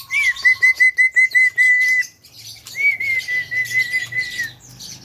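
Javan myna (jalak kebo) calling: two runs of quick, evenly repeated chirping notes at about five a second, each run opening with a higher note and lasting under two seconds, with a short pause between them.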